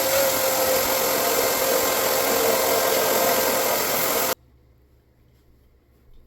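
A small electric motor running steadily with a high whine over a loud hiss, switched off about four seconds in.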